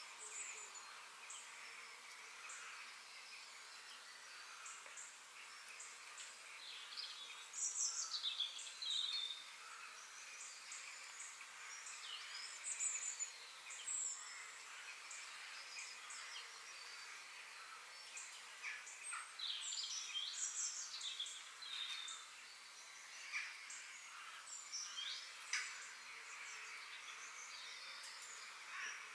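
Several forest birds singing and chirping in overlapping short phrases over a steady background hiss, with bursts of louder song about a quarter of the way in and again around two-thirds through.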